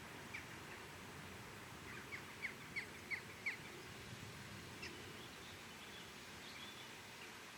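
A bird calling a quick run of about six short, falling chirps a couple of seconds in, with a few single chirps later, over faint steady background noise.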